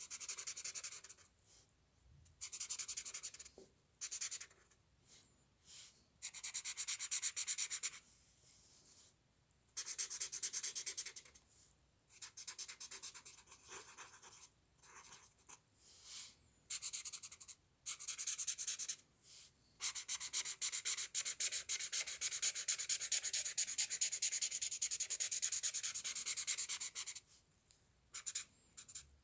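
A drawing tool scratching on paper in short separate strokes and bursts. About twenty seconds in comes a long run of rapid back-and-forth strokes lasting some seven seconds.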